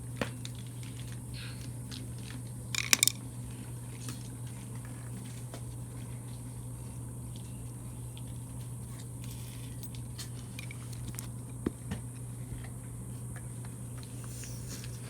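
Handling noises from a removed, rust-clogged generator gas tank being emptied: scattered light clicks and knocks, with a brief clatter about three seconds in, over a steady low hum.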